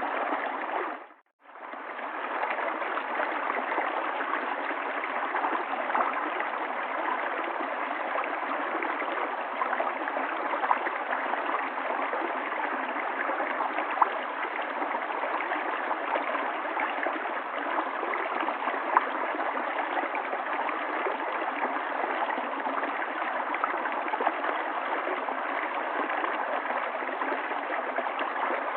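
River water flowing steadily, an even rushing with small gurgles and splashes in it. About a second in, the sound cuts out completely for a moment and then fades back up.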